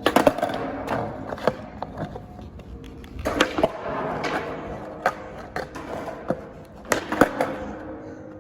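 Skateboard wheels rolling on concrete, broken by repeated sharp clacks and knocks of the board's tail and deck hitting the ground, as in attempted tricks.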